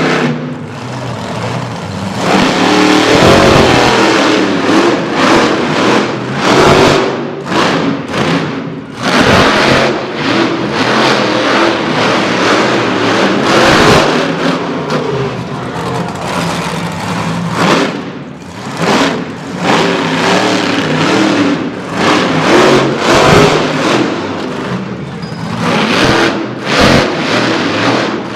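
Monster truck engine revving hard, again and again, loud and surging up and down in pitch as the throttle is opened and backed off.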